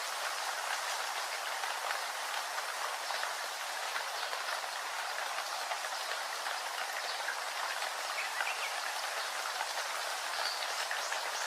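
Steady rainfall, a constant even hiss of rain with scattered individual drops landing close by.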